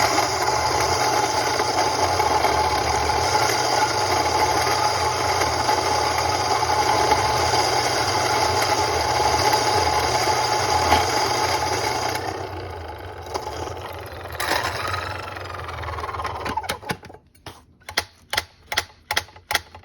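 Fellow Ode Gen 2 flat-burr coffee grinder grinding beans at setting 8: a loud, steady motor-and-grinding noise for about twelve seconds, then a lighter running sound as the beans run out, which stops. Near the end come about eight quick, sharp taps.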